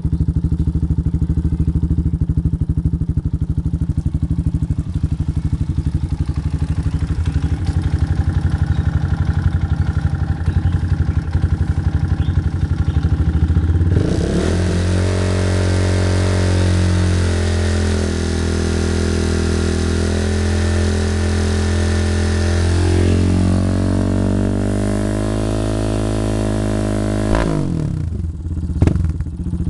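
Motorcycle with an aftermarket racing exhaust idling with a fast, even putter. About halfway through it is revved up and held at high revs with small rises and falls. The revs drop back suddenly near the end, followed by a couple of short throttle blips.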